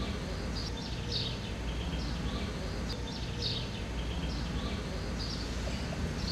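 Outdoor ambience: short, faint bird chirps repeating every second or so over a steady low rumble.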